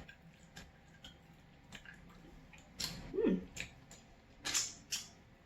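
Close-up chewing of food with scattered wet mouth clicks, and a short hummed "mm" about three seconds in.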